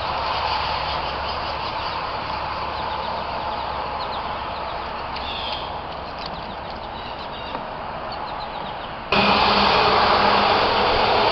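Steady outdoor background noise with faint chirps of small birds scattered through the middle. About nine seconds in, the noise jumps suddenly louder and holds there.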